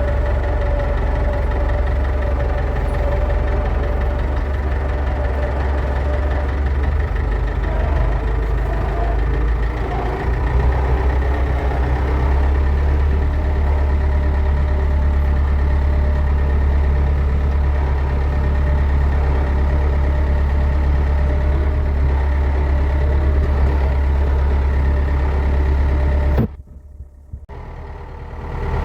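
David Brown 1490 tractor's four-cylinder diesel engine running steadily while driving on the road. The sound drops away abruptly for a moment near the end.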